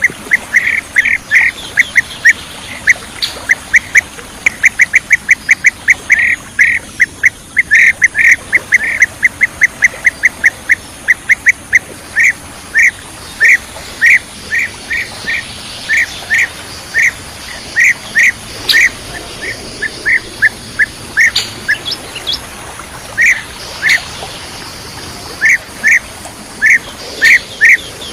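Bee-eater (kirik-kirik) calls: short, loud trilled notes repeated in a fast run of several a second, then spaced out to about one a second with short pauses, the kind of call played to lure the birds.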